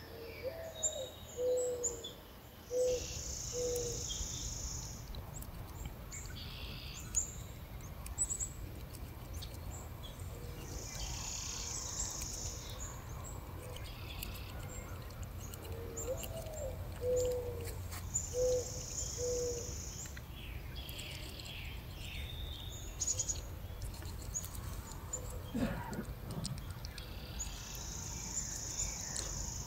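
Birds calling outdoors. A low cooing phrase, one rising-and-falling note followed by three shorter lower coos, comes twice and starts again near the end. A high, buzzy trill of about a second and a half repeats about four times, over a steady low hum.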